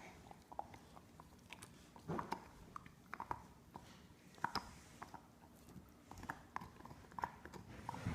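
A dog chewing and gnawing on a bone: faint, irregular wet clicks and crunches, several a second.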